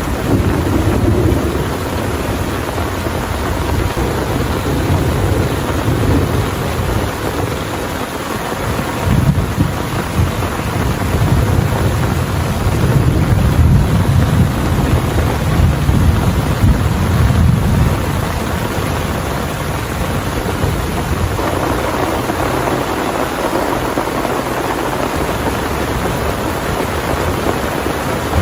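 Heavy rain falling steadily while thunder rumbles in long low swells. The rumbling rolls on for most of the first two-thirds, then dies away about three-quarters of the way through, leaving only the steady hiss of the downpour.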